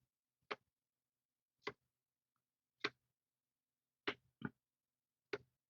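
Trading cards being flipped through one at a time, each card giving a short crisp snap: six snaps roughly a second apart, two of them close together, with silence between.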